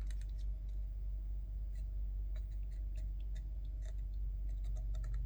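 Scattered faint clicks and light taps of small plastic headset parts and wire being handled while super glue is applied, over a steady low hum.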